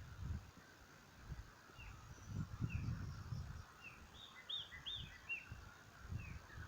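Small birds chirping: a string of short, arched calls repeated every half second or so, coming quicker about four to five seconds in. Intermittent low rumbling bursts underneath are louder than the chirps.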